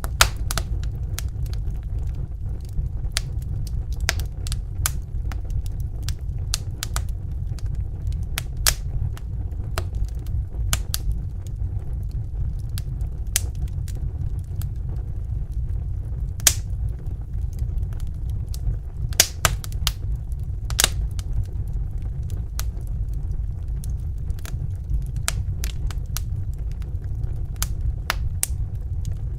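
Wood fire crackling in a fireplace: irregular sharp pops and snaps over a steady low rumble of the flames, with a few louder pops now and then.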